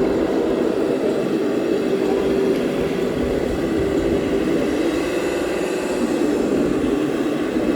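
Radio-controlled model trucks running, a steady mechanical hum with a few held tones.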